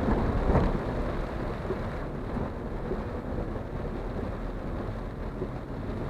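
Steady in-cabin noise of a Maruti Suzuki Alto K10 driving in heavy rain on a waterlogged road: tyres through water and rain on the body.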